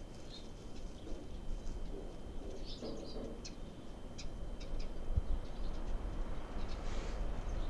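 Birds giving short high chirps and calls, scattered through, with a cluster about three seconds in, over a low steady rumble.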